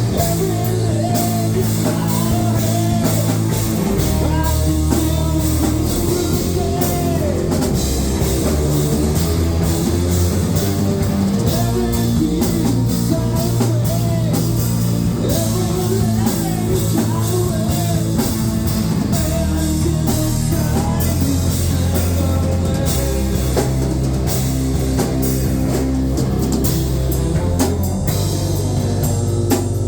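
Rock band playing a song with drum kit and guitars, loud and steady, with a melodic line bending in pitch above held low bass notes that change every few seconds.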